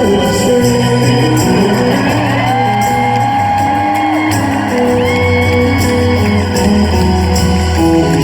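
Live rock band playing in a large hall, a voice singing long held notes over organ, guitar and drums.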